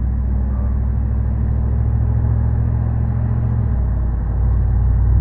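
A 5.7L HEMI V8 with its resonator deleted and an aftermarket muffler, heard inside the truck's cab as a low exhaust drone under medium acceleration. Near the end the engine note steps up in pitch and gets louder.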